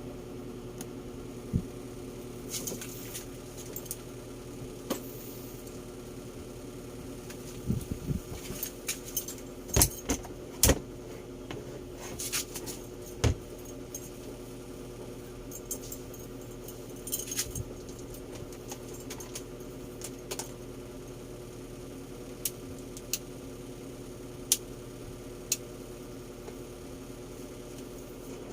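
Scattered clicks, knocks and short rattles of hard objects being handled, thickest in the middle, over a steady low hum.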